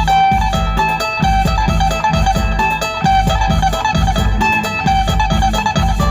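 Phin, the Isan plucked lute, playing a quick run of plucked notes over a steady low beat.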